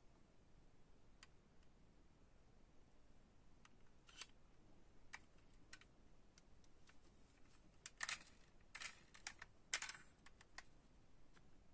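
Faint, scattered clicks and light taps from diecast model cars and their plastic packaging being handled, with a busier run of clicks and short rustles about eight to ten seconds in.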